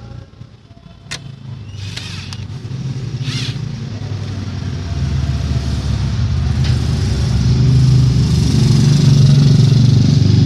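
A vehicle engine running, growing louder over several seconds and then holding steady, with a few sharp clicks before it builds.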